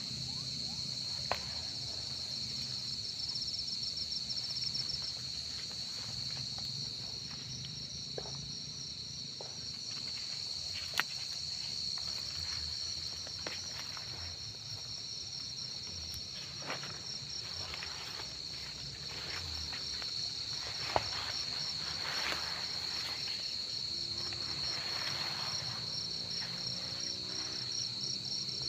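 Field crickets calling: one steady high trill, joined about three seconds in by a second, rapidly pulsed trill just above it. Scattered sharp clicks and rustling of footsteps through vegetation.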